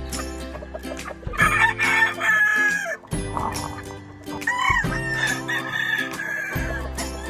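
Gamefowl roosters crowing twice, each crow lasting about a second and a half, over background music.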